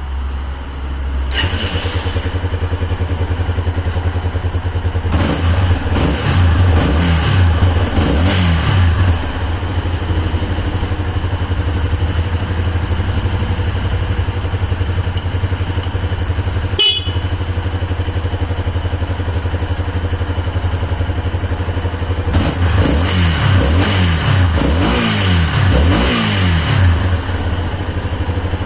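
Yamaha Tricker's single-cylinder engine running at idle, blipped up and down in two spells of revving, once early and once near the end. It runs evenly after a repair that turned a badly running bike into one in top condition.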